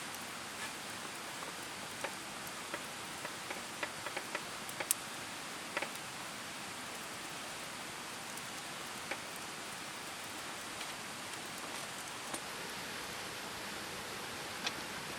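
Campfire crackling: scattered sharp pops, a cluster in the first few seconds and a few more later, over a steady hiss.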